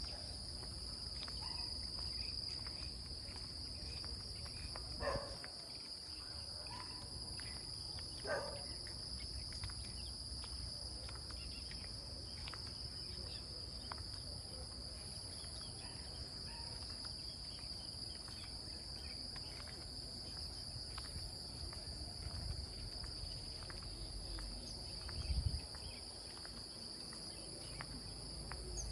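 Steady high-pitched chorus of crickets and other insects, with scattered faint ticks of light rain dripping. Two short calls come about 5 and 8 seconds in, and there is a brief low bump near the end.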